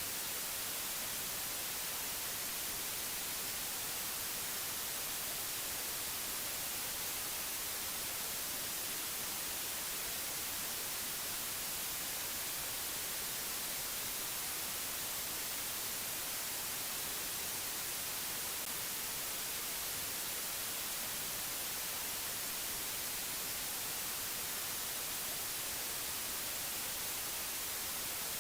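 Steady white-noise hiss, even and unchanging, strongest in the treble.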